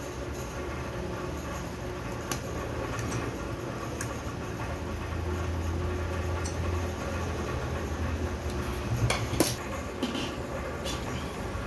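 Small metal turbocharger parts and hand tools clicking and tapping now and then during reassembly, the loudest a short clatter about nine seconds in, over a steady low hum.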